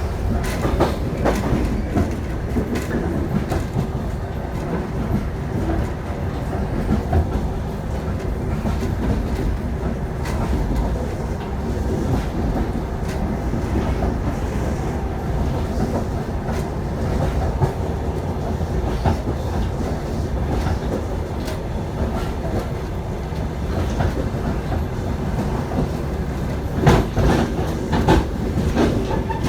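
Passenger train's steel wheels rolling over the rails with a steady low rumble and the clickety-clack of wheels crossing rail joints. The clatter gets louder for a moment near the end.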